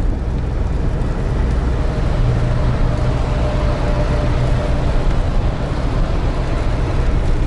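Steady engine and road noise inside the cab of a GAZelle Next light truck moving slowly on an icy road, a low, even rumble with a faint steady whine in the middle.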